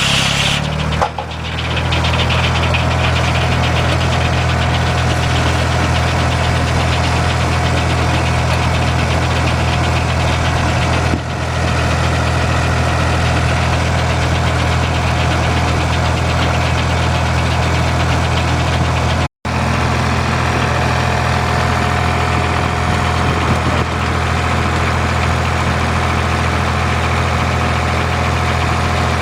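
Engine of an old sawmill running steadily at a constant speed, with a faint steady whine above it. The sound breaks off for an instant about nineteen seconds in.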